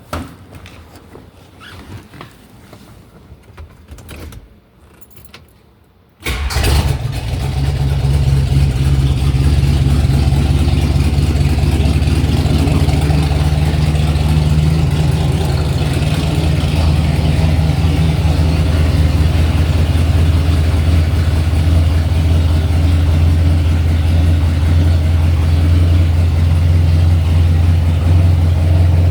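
Cold start of a 440 V8. A few light clicks and knocks come first. About six seconds in, the engine fires abruptly and settles into a loud, steady idle with a deep rumble.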